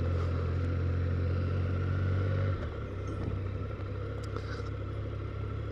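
Triumph Sprint GT's 1050 cc three-cylinder engine running under way, a steady low drone with road and wind noise; the engine note drops lower and quieter about two and a half seconds in.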